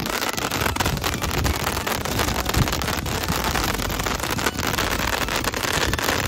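Many ground-launched fireworks spraying sparks all at once: a continuous hissing with dense, rapid crackling throughout.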